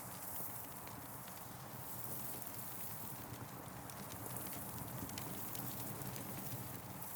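Campfire burning, with frequent small crackles and pops over a steady rushing background.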